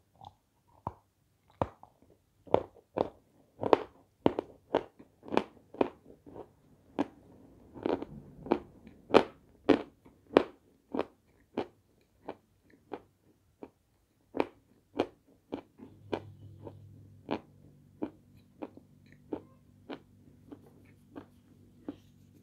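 Close-up chewing of a crunchy white Turkestan sweet: a long run of sharp crunches, about two a second. A low steady hum joins in about two-thirds of the way through.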